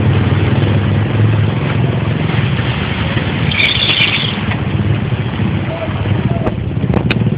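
A vehicle engine running steadily under a continuous hiss of noise, with a brief higher-pitched sound about halfway through and a few sharp clicks near the end.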